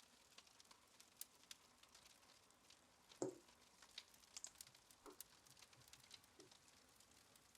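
Near silence with faint scattered clicks and crackles, and a single louder soft knock about three seconds in.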